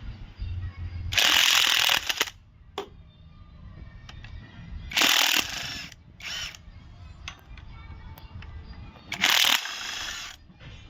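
A wrench undoing the timing-cover bolts on a diesel engine, in three loud bursts of about a second each with lighter clicks and clatter between them.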